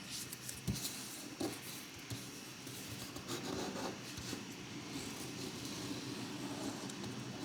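A sheet of origami paper being folded and creased by hand, rustling and rubbing, with a few soft knocks in the first two seconds.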